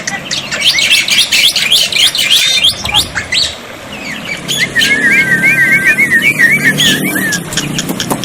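Black-winged starling (jalak putih) calling: a dense run of loud chirps and squawks, then a quick series of wavy warbled notes through the middle, with sharp clicks among them.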